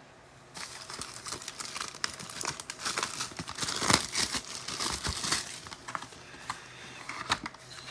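Plastic wrapping on a trading-card box or pack crinkling and tearing as it is opened by hand. It starts about half a second in, with irregular crackles and sharp snaps.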